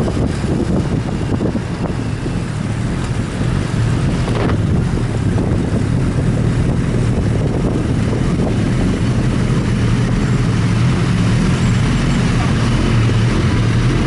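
Steady low engine drone mixed with wind noise, unchanging in pitch.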